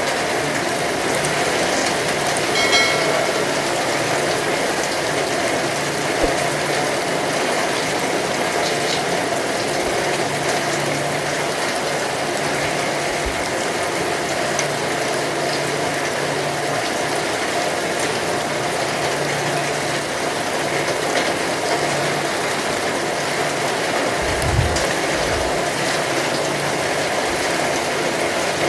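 Heavy rain falling steadily, a dense, even patter of drops. There is a short pitched call about three seconds in and a couple of low thumps near the end.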